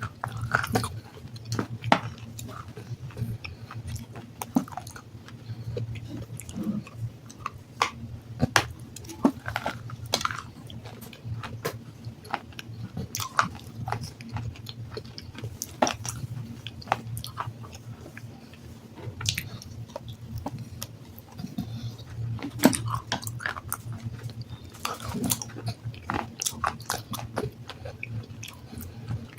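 Biting and chewing of hard black sandstone: irregular sharp crunches and cracks between the teeth, over a steady low hum.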